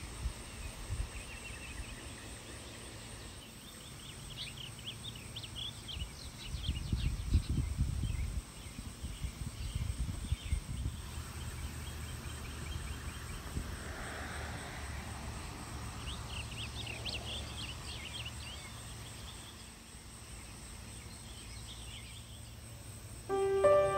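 Birds chirping in scattered bursts, with a low wind rumble on the microphone. Soft music starts near the end.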